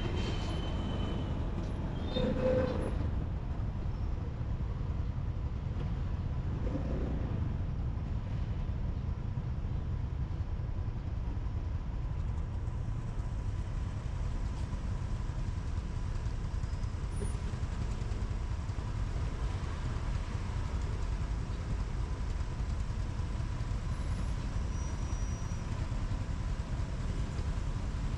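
A motorbike riding through city traffic, heard from the rider's seat: a steady low rumble of engine and road, with a brief louder sound about two and a half seconds in.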